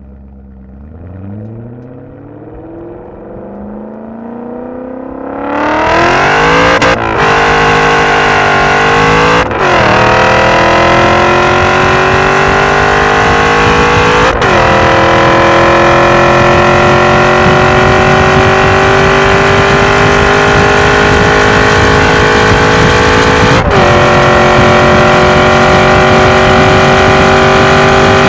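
BMW E39 M5's V8 exhaust, with no mufflers and Jones Turbine resonators, heard at the rear bumper during a hard acceleration run. The note builds at lighter throttle, then goes to full throttle about five seconds in and climbs in pitch through each gear. There are four quick upshifts, and each gear pulls longer than the last.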